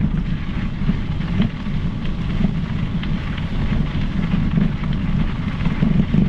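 Steady wind buffeting on the microphone of a moving mountain bike, a low rumble, with scattered light clicks and rattles from the ride.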